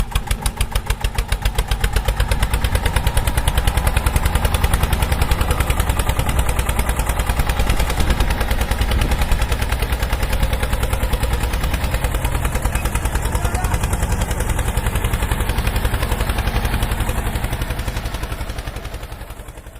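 Small tractor engine running with a rapid, even putt-putt firing beat. It gets louder over the first couple of seconds, then holds steady before fading out at the end.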